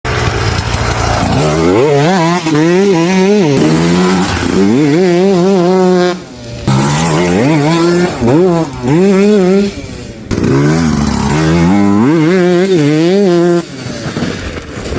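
Sherco 125 SE-R two-stroke single-cylinder enduro motorcycle engine revving hard in about four long bursts, its pitch climbing and wavering within each burst, with brief drops in between.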